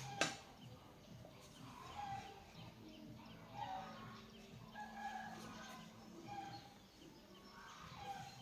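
Faint, short animal calls repeating every second or so, with one sharp click just after the start.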